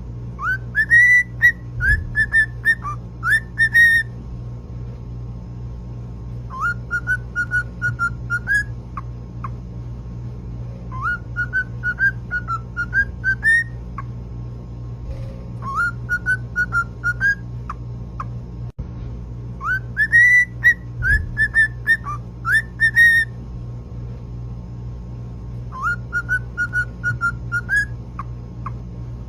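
Male cockatiel whistling its mating call: six phrases of short, rising whistled notes, each a few seconds long with pauses between them, over a steady low hum.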